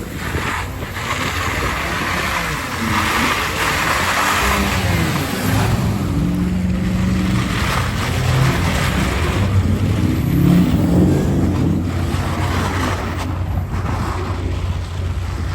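Pickup truck engine revving, its pitch rising and falling repeatedly, under a steady rushing noise.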